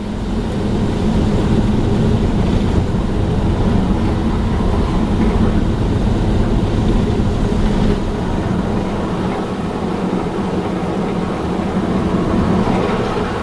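Mark VII ChoiceWash XT automatic car wash running, heard from inside the car: spinning wash brushes and water beating on the body make a loud, steady rumbling wash that comes on suddenly.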